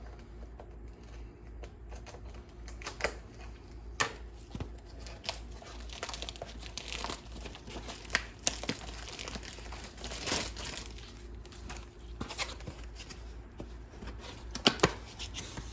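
Packaging being torn open and crinkled by hand, with irregular rustling and scattered sharp clicks and snaps, as a replacement blower motor resistor module is unboxed.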